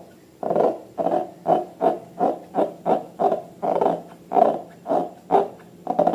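Slime being squeezed and kneaded by hand, with a rhythmic wet squelch about two to three times a second.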